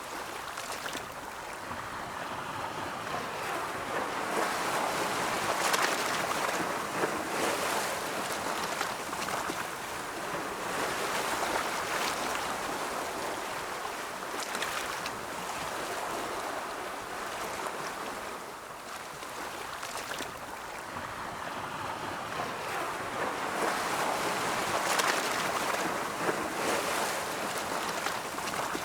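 Ocean waves rolling in and washing on the shore, a steady rushing wash that swells and ebbs slowly, cresting every several seconds.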